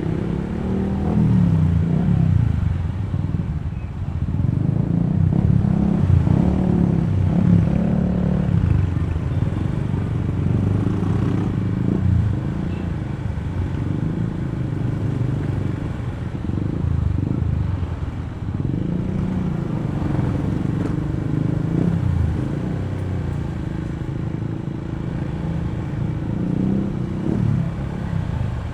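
Honda ADV160 scooter's single-cylinder engine running on the move. Its pitch rises and falls several times as the rider speeds up and eases off, with road and tyre noise underneath.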